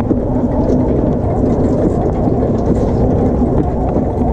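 Go-kart's small engine running steadily with a held hum over a rumbling background, just after being restarted.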